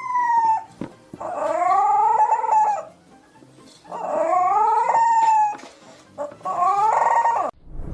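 A dog howling: a falling howl that ends about half a second in, then three more howls, each rising and then holding for a second or more.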